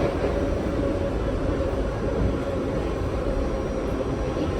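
R68 subway car riding along the tracks: a steady rumble of wheels and running gear with a faint steady hum.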